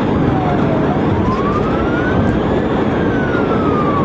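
Police siren in a slow wail, falling, rising again about a second in, peaking near three seconds and falling once more, over loud, steady road and engine noise of a car at speed.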